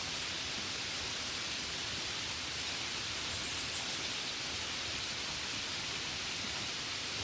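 Gentle rain falling steadily, an even hiss with no separate drops standing out.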